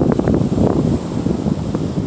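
Strong, gusty wind buffeting the microphone, with ocean surf underneath.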